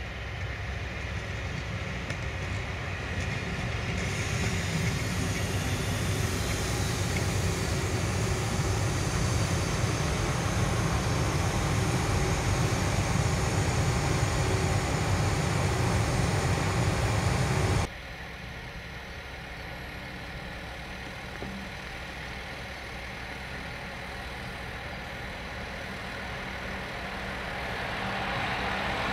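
An older electric multiple unit passing close by on the station tracks: a steady rumble of wheels and running gear that builds over the first few seconds. It cuts off abruptly about two-thirds of the way through, leaving a quieter steady hum that swells again near the end.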